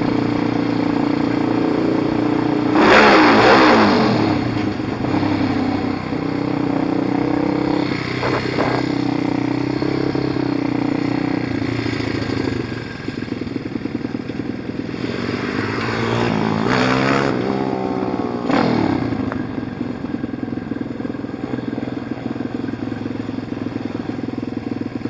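Pit bike engine running, blipped up to high revs and dropping back several times: sharply about three seconds in, briefly around eight seconds, and in a run of revs between about fifteen and nineteen seconds, with lower, steady running in between.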